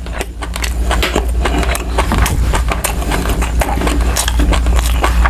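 Close-miked chewing of a mouthful of braised yellowfin tuna roe: wet mouth clicks and smacks coming irregularly and fast, over a steady low rumble.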